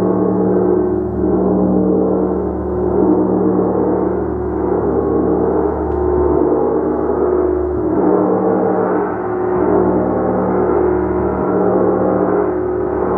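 Gong played continuously: a dense, sustained wash of many overlapping tones that gently swells and ebbs every second or two.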